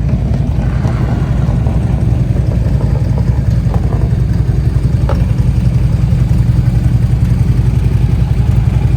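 Motorcycle engine running nearby with a steady, loud, low pulsing rumble.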